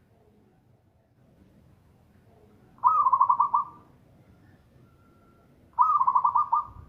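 Zebra dove singing: two song phrases about three seconds apart, each a rapid run of about six staccato cooing notes.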